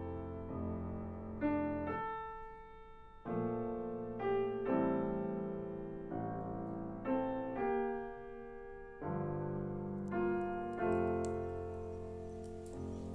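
Solo piano playing a slow original piece, a chord or note struck about every second and left to ring and fade. Near the end a faint crackling patter comes in under the piano.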